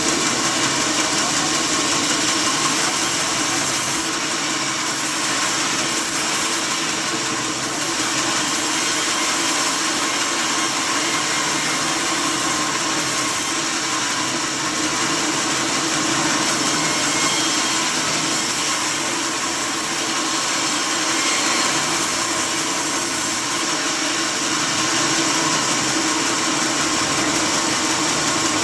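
Sawmill saw machinery running with a steady, unbroken noise.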